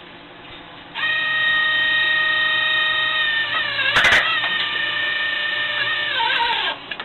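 Electric power tool motor running with a steady high whine, a sharp knock midway, its pitch sagging as it cuts off near the end.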